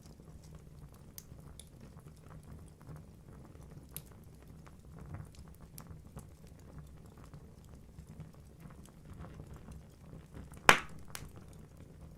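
Wood fire burning in a fireplace: a low steady rumble of flames with scattered small crackles, and one loud sharp pop from the logs near the end.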